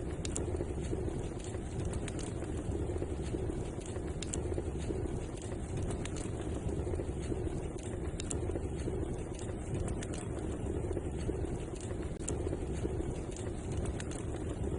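Wood fire in a fireplace crackling: scattered sharp little pops and snaps over a steady low rushing of the flames.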